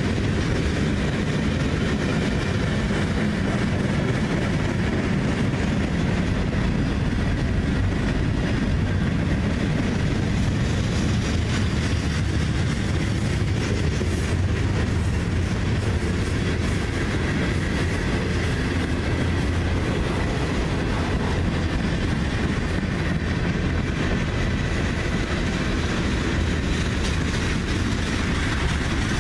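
Freight cars of a CSX manifest train rolling past: steady, loud wheel-on-rail noise.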